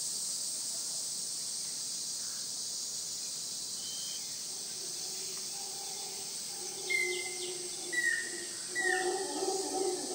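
Rain forest insect chorus, a steady high buzz, with three short bird calls in the second half.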